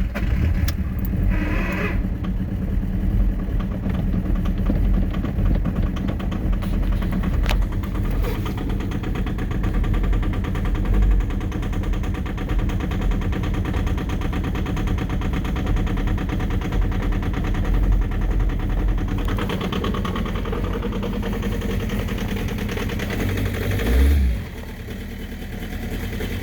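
A 1.9-litre four-cylinder turbodiesel struggling through a cold start without its block heater, firing unevenly as it tries to catch. About 24 s in there is a brief surge, and then it settles to a quieter, steadier idle.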